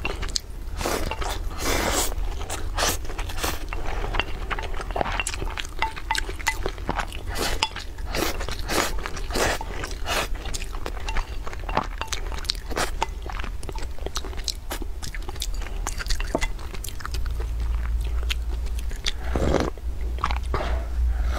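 Close-miked chewing and wet mouth sounds of a person eating a spoonful of rice, a dense run of quick smacks and clicks. Near the end a longer slurping sip from a glass mug.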